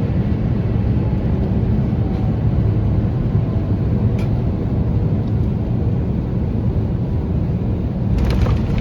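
Steady low rumble of a vehicle's interior in motion, with a couple of faint clicks.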